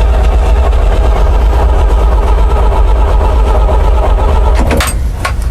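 Starter cranking the engine of a 1974 Chevrolet grain truck, turning it over steadily without it catching, to pump fuel up to the carburetor. The cranking stops about five seconds in.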